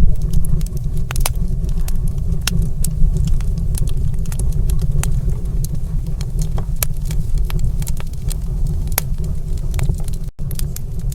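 Wood fire in a stone fireplace crackling, with frequent sharp irregular pops over a steady low rumble. The sound cuts out for an instant about ten seconds in.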